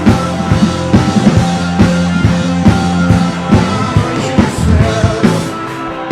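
Live worship band playing: drum kit hits over held chords and a steady bass line.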